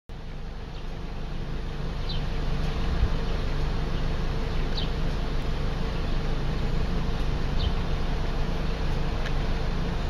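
Steady buzzing hum with a faint held tone, and a few short, high chirps that fall in pitch, spaced a couple of seconds apart: a bird calling.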